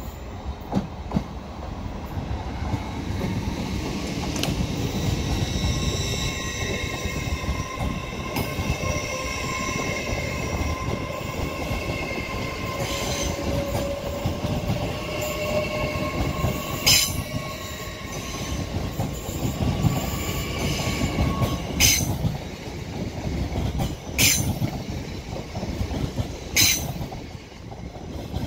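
LNER Class 801 Azuma electric multiple unit running slowly past along the platform, with wheel and rail rumble and a steady whine in several pitches. A few sharp clicks from the wheels come in the second half.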